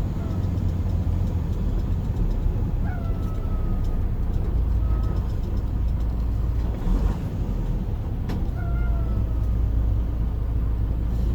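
Steady low rumble of a semi-truck's engine and road noise inside the cab while driving, with a few short, slightly falling squeaks and a couple of faint knocks.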